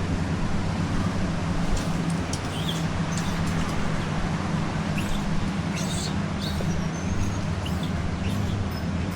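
A steady low engine drone with no change in pitch, overlaid with scattered short high chirps and clicks.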